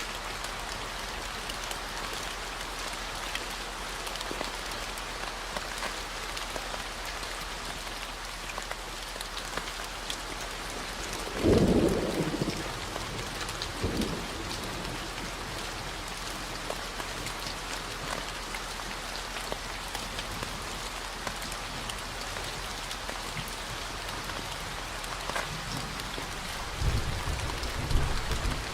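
Steady rain falling, with a low 40 Hz tone held underneath. A thunder rumble comes about twelve seconds in, a weaker one about two seconds later, and more low rumbling near the end.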